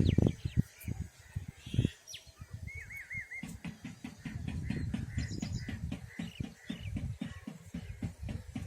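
Birds chirping, with a short wavering trill about 3 s in and quick runs of high chirps near 5 s, over repeated low thumps and knocks that are louder than the calls.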